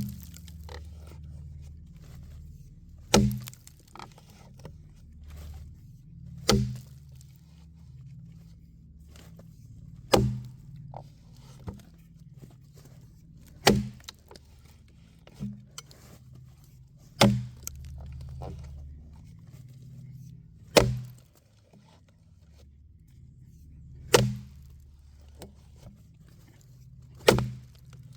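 An axe hewing a log: heavy chops into the wood about every three and a half seconds, each followed by a short ring, with lighter knocks between the blows.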